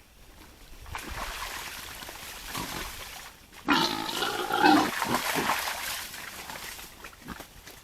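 Wild boar calling: a sudden loud pitched call starting a little under four seconds in and lasting about a second and a half, after several seconds of rustling and snuffling.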